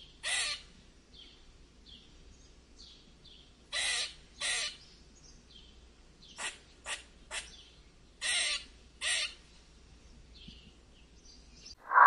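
Fox squirrel giving short, harsh barking calls in small groups: one near the start, a pair about four seconds in, three quicker, shorter ones around six to seven seconds, and another pair near nine seconds, with fainter calls in between.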